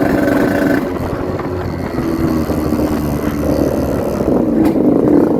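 Yamaha RX-King 135cc two-stroke single-cylinder motorcycle engine running under way, with wind buffeting the microphone.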